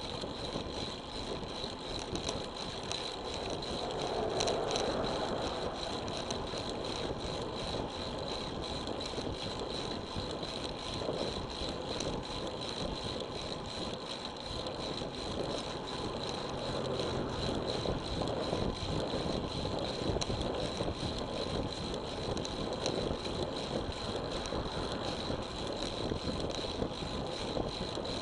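Road bicycle ride picked up by an action camera: steady wind and tyre noise with many faint clicks and rattles, and a steady high tone.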